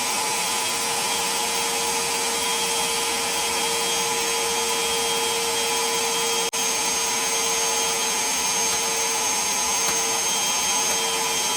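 Parkside PWDA 20 Li A2 cordless wet and dry vacuum cleaner running steadily with a constant motor whine, sucking up water from the floor through its floor nozzle. The sound drops out for an instant about halfway.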